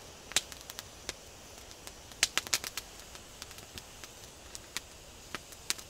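Wood campfire crackling: irregular sharp pops and snaps over a faint hiss, with a quick run of them about two seconds in.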